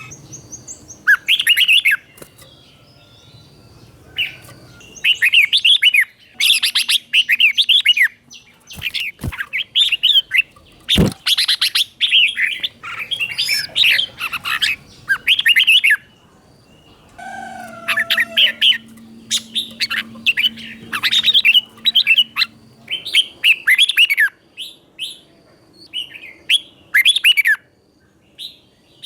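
Red-whiskered bulbul singing the doubled (เบิ้ล) song style: short, rapid phrases of warbled whistled notes repeated every second or two with brief pauses. There is a sharp click about eleven seconds in.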